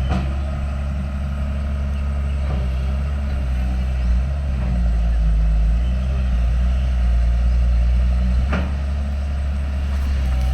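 Diesel engine of a heavy earthmoving machine running steadily at a low, even note, with two sharp knocks, one at the start and one about eight and a half seconds in.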